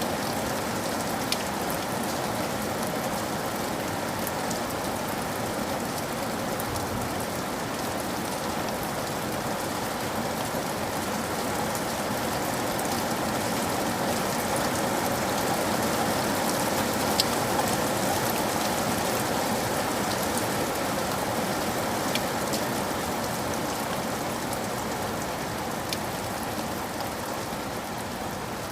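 Steady rain falling on a surface, an even hiss with a few faint, scattered sharp drop ticks.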